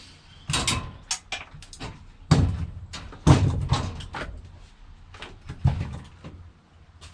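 A run of knocks and bangs, with three louder heavy bangs among lighter clatters.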